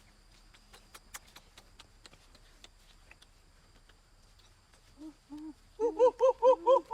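Faint scattered clicks, then a person's voice making short hoot-like vocal sounds that start about five seconds in and quicken to a loud run of about five a second near the end.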